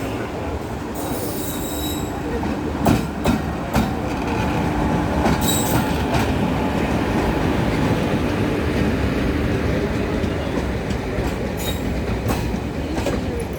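Doon Express passenger train running on the track: a steady rumble of wheels on rail, building up at the start, with brief high wheel squeals and a few sharp knocks from the rail joints.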